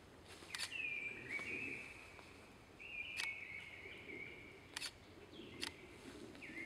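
Bird calling with long, drawn-out high whistles, each held steady for a second or more and stepping down a little in pitch partway. There are two full calls and the start of a third near the end, with a few sharp clicks in between.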